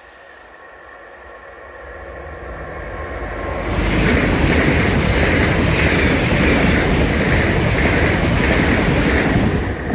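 Class 365 electric multiple unit passing at speed. It grows louder over about three seconds as it approaches, then goes by loudly for about six seconds with a regular beat roughly every 0.7 seconds, and drops away sharply near the end.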